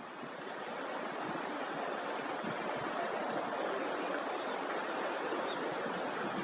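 Steady rush of running water, an even noise without breaks.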